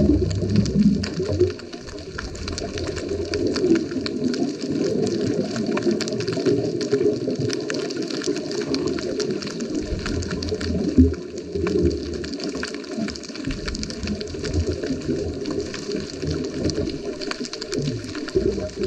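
Underwater sound from a scuba dive, recorded through a GoPro: a steady watery rush with a constant fine crackle of small clicks, and low rumbling surges of a diver's exhaled bubbles at the start, about ten seconds in, and again near the end.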